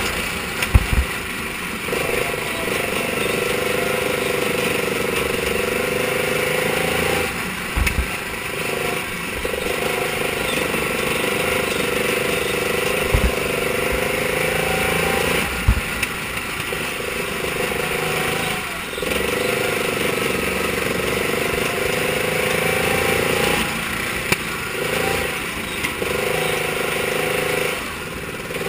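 Mini sprint car engine running hard and steady at high revs. It eases off briefly about every eight seconds, and a few sharp low thumps come through.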